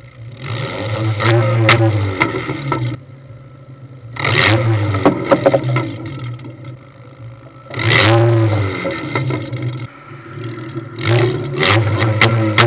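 Ford Fiesta 1.6-litre four-cylinder engine blowing through a short stainless downpipe that exits through the bonnet, idling and blipped up four times, with sharp crackles through the revs.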